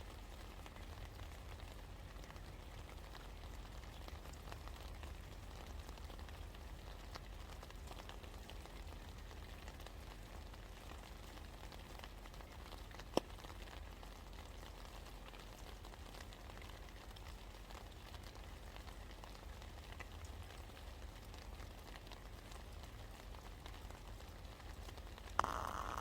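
Steady rain falling, a soft hiss with many small drop ticks and one sharper tick about halfway. Just before the end the sound suddenly gets louder.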